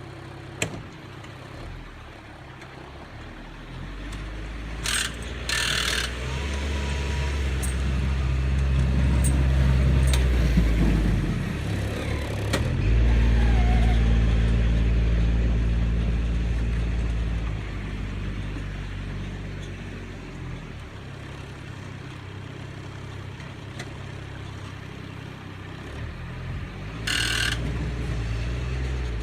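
Kubota tractor's diesel engine running and working up under load twice, as when pushing snow, with a few short clanks.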